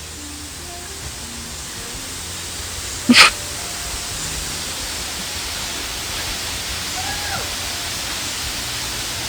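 Steady rushing noise of a waterfall. A short, sharp burst about three seconds in is the loudest moment.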